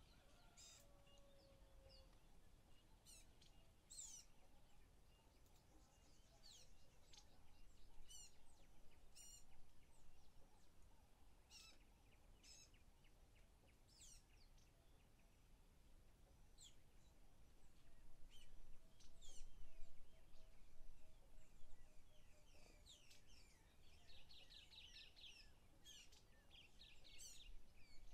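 Faint scattered bird chirps and calls, many short notes dropping in pitch, with a quick run of them near the end, over near-silent room tone.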